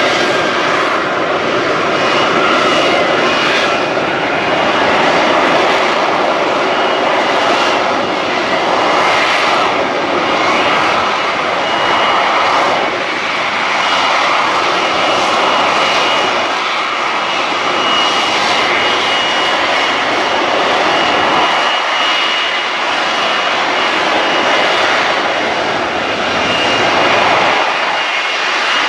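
Lockheed Martin F-35B Lightning II's Pratt & Whitney F135 jet engine running: a loud, steady rush with a thin high whine.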